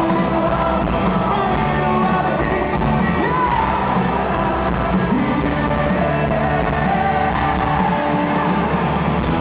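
Rock band playing in a large hall, with a voice singing over guitars and drums.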